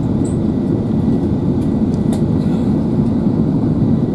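Steady low rumble of engine and airflow noise inside an Airbus A380 cabin on the approach to landing, with a faint click about two seconds in.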